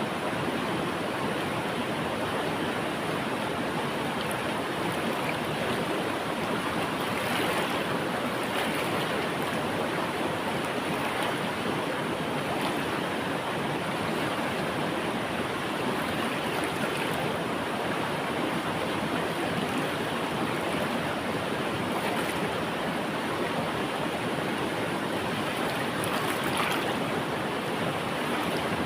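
River water flowing over rocks in a steady rush, with small splashes now and then.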